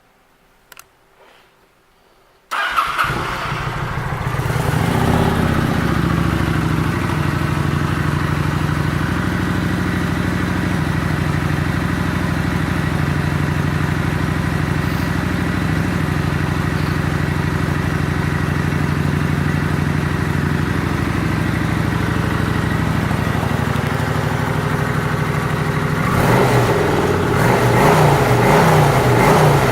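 2011 Kawasaki Vulcan 900 Classic LT's V-twin engine starting about two and a half seconds in, catching at once and settling into a steady idle. Near the end it is revved lightly, getting louder and wavering.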